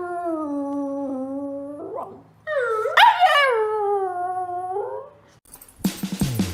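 Dog howling: two long howls, the first held and slowly sinking in pitch, the second rising sharply and then sliding down. Music cuts in near the end.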